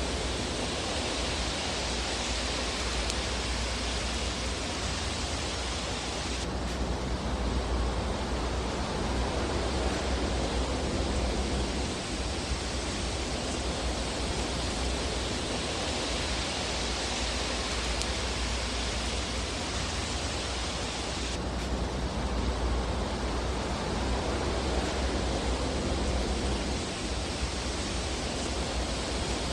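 Steady rushing hiss and low rumble of a fireplace fire, as in a fire ambience track. There are no distinct pops. The hiss changes character abruptly about six seconds in and again about twenty-one seconds in.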